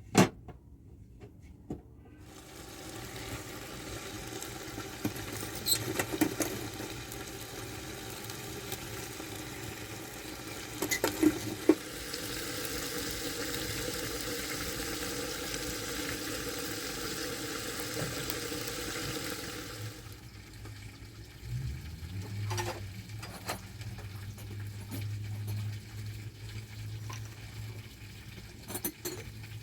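Food sizzling over an open fire: a steady hiss that stops suddenly about twenty seconds in, with a few sharp clicks. A low steady hum follows near the end.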